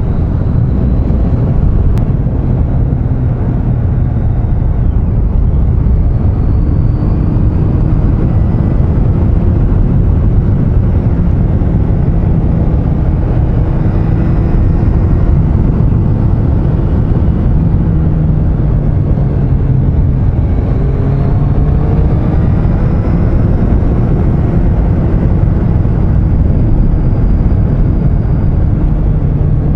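Triumph Street Triple 660 inline-three engine running while the motorcycle rides along at a steady pace, under heavy wind rush on the helmet-mounted microphone. The engine pitch drifts slowly up and down, with a few changes in revs about two-thirds of the way through.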